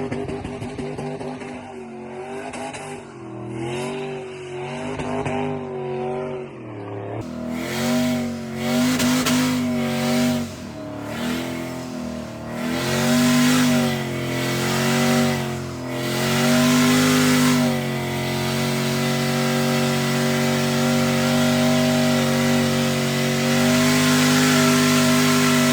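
Turbocharged 6.0-litre V8 of a Chevrolet C10 burnout truck revving up and down over and over, about once a second, then held steady at high revs for the last several seconds, with tyre hiss in the background, as in a burnout.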